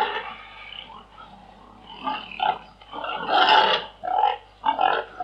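Pigs grunting: a run of short grunts, with one longer, louder call about three seconds in.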